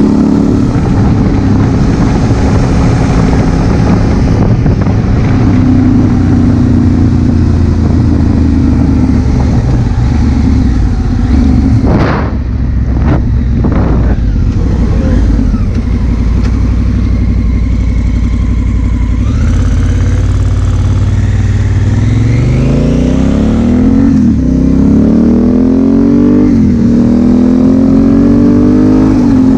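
Honda Africa Twin CRF1000L's parallel-twin engine heard from the rider's helmet camera, running at a fairly steady speed at first. From about two-thirds of the way in it accelerates hard, its pitch climbing and dropping back three times as it is shifted up through the gears.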